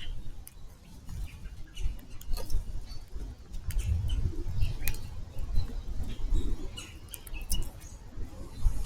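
Backyard birds: scattered short chirps and clicks with wing flaps, over an uneven low rumble.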